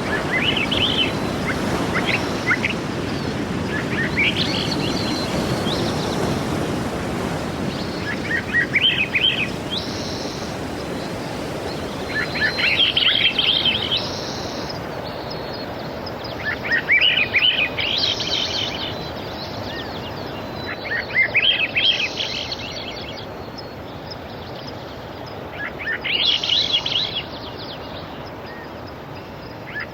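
Sea waves washing as a steady hiss that swells and eases, with a songbird singing a short trilled phrase about every four seconds.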